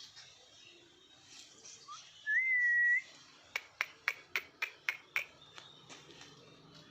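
A short whistle, one clear note that rises and is then held for under a second, followed by a quick run of seven sharp clicks.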